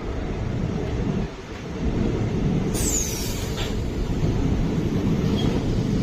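Train running on the track with a steady low rumble. About three seconds in there is a brief high squeal that falls in pitch.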